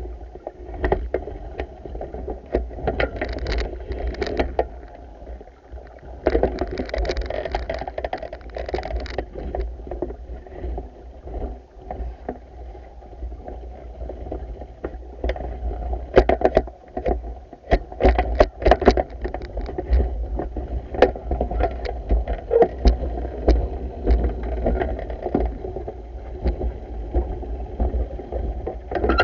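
Manual pool vacuuming: water swishing and sloshing, with frequent sharp clicks and knocks over a steady low rumble.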